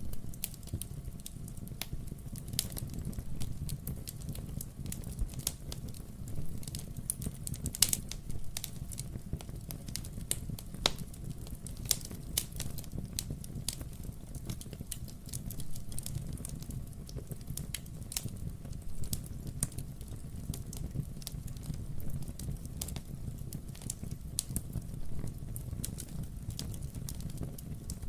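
Wood fire burning in a fireplace: a steady low rumble of the flames with irregular crackles and sharp pops from the burning logs, a couple of pops louder than the rest.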